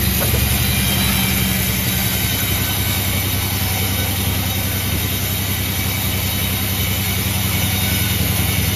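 A heavy engine idling steadily with a low, even hum.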